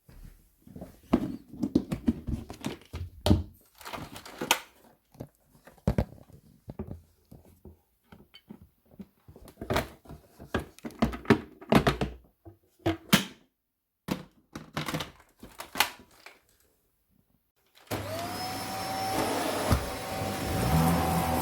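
Scattered knocks, bumps and clatter of things being handled. About 18 s in, a vacuum cleaner switches on and runs steadily, its motor whine rising as it spins up.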